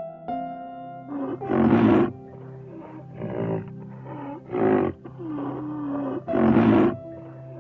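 A big cat roaring or growling in four loud, rough outbursts over steady background music.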